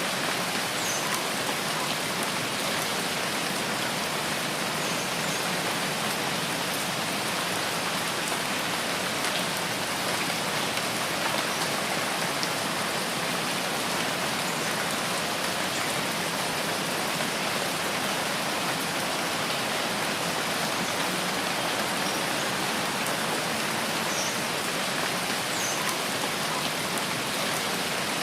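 Steady rain falling in a forest, an even unbroken hiss. A few faint, short high chirps come through now and then.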